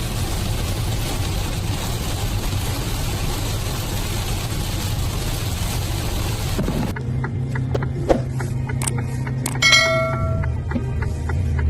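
Steady highway traffic noise for about seven seconds. After a cut, a low steady hum with a single thump about eight seconds in and a brief ringing tone near ten seconds.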